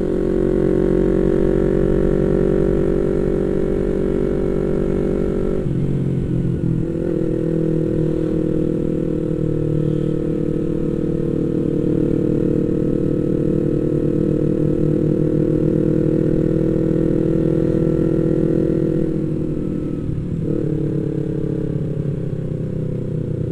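Yamaha MT-25's 249 cc parallel-twin engine running steadily under way, heard from the rider's seat. Its note shifts briefly about six seconds in and again around twenty seconds.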